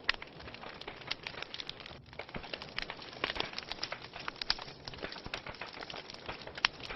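Wood fire crackling in a fireplace: a steady hiss under irregular sharp pops and snaps, a few of them louder.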